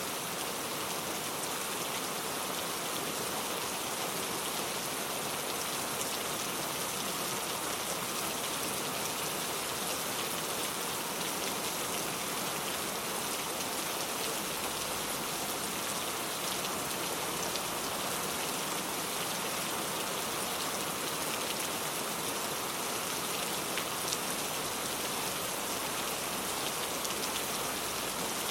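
Heavy rain falling steadily, a dense even hiss with scattered drops ticking on a surface.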